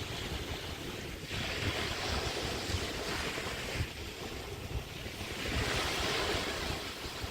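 Small bay waves breaking and washing up a sandy beach, two washes coming in a few seconds apart, one about a second in and the next past the middle. Wind buffets the microphone with a steady low rumble.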